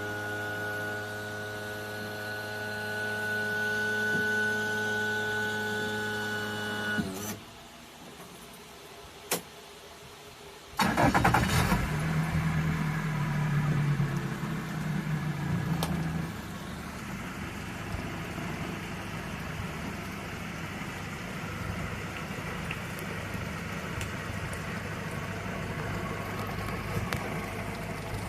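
The electric power-tilt motor of a four-stroke fuel-injected outboard hums steadily for about seven seconds and stops. After a click, the engine cranks and catches about eleven seconds in, runs loudly for several seconds, then settles to a steady idle.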